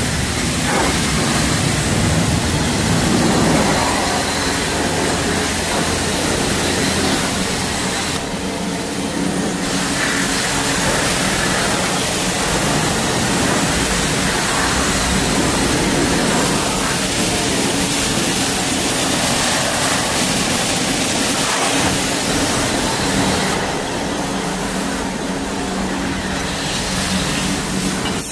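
Polaris Slingshot three-wheeler's engine running on the move, its pitch rising and falling with the throttle several times, under a steady rush of wind and road noise.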